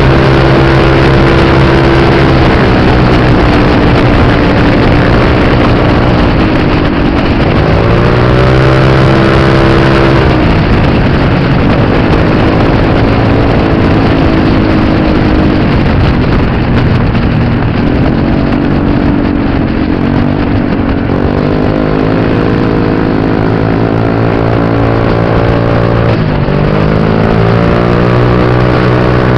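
Motorbike engine under way, loud, its pitch climbing as it accelerates and then falling off again, several times over.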